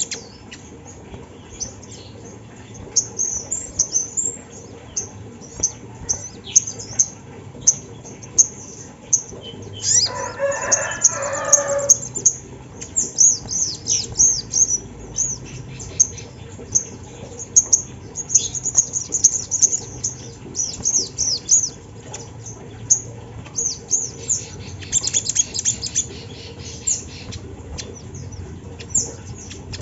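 Sogon (sogok ontong), a small songbird, singing a rapid run of short, high-pitched chirps and trills. About ten seconds in there is a lower, harsher call of about two seconds.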